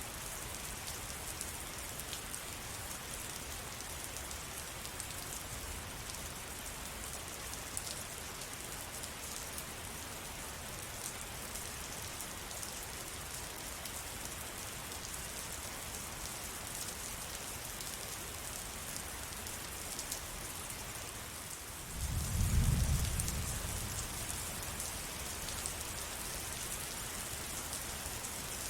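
Steady rain falling, with fine drop patter. About three quarters of the way through, a low rumble of thunder swells, becomes the loudest sound, then slowly fades under the rain.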